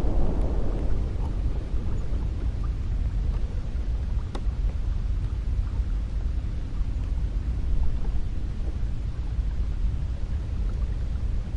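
Cold wind blowing in a steady deep rumble, its brighter gusting easing off about a second in.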